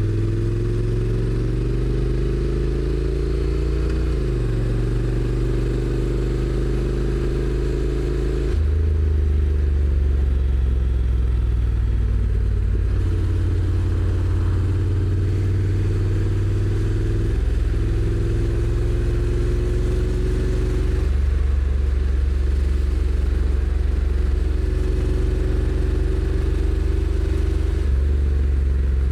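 Honda NC750X's parallel-twin engine pulling under a rider. Its note climbs slowly and drops back in steps about four times as the DCT automatic gearbox shifts.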